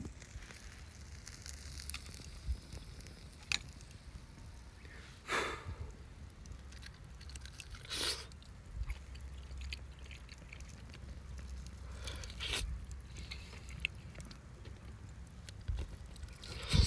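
A person eating grilled chicken, chewing with a few separate louder bites or crunches over a low, steady background rumble.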